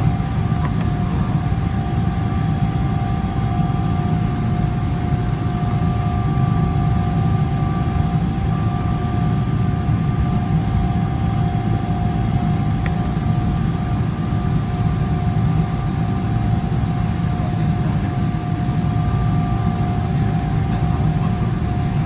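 Cabin noise of a Boeing 777-300ER taxiing on its GE90-115B engines at low taxi thrust: a steady rumble with two constant whining tones over it.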